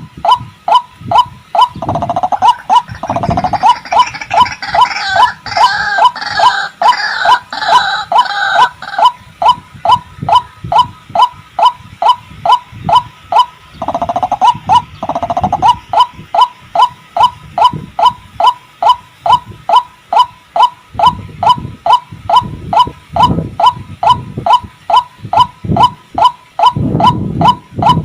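White-breasted waterhen (ruak-ruak) calling a short, repeated note about twice a second, steady throughout. From about 2 to 9 seconds in, and again briefly around 14 seconds, harsher overlapping calling joins in.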